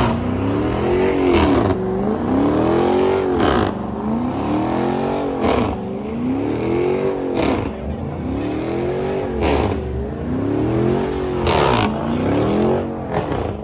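Car engine revved hard over and over, its pitch climbing and falling about every two seconds, with a sharp crack as each rev drops.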